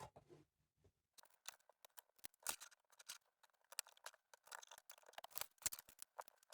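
Faint, quick plastic clicks and taps of Lego pieces being handled and pressed together, a few louder than the rest, starting about a second in.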